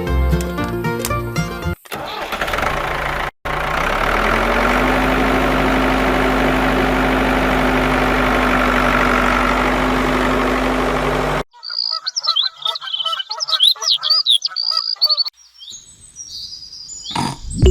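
A steady mechanical running sound, like a small engine or motor, with a hum that steps up in pitch soon after it starts, and it cuts off suddenly. High chirping bird calls follow, with background music before and after.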